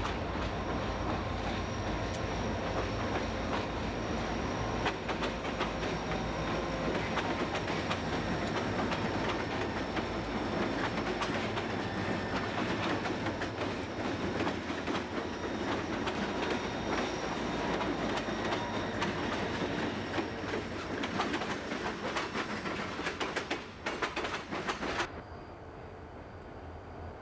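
A mixed lash-up of EMD and GE diesel locomotives, among them a Susquehanna GE B40-8, running as they pass close by. This is followed by the rumble and clickety-clack of empty coal hoppers rolling over the rail joints. Near the end the sound cuts abruptly to a quieter, distant running locomotive.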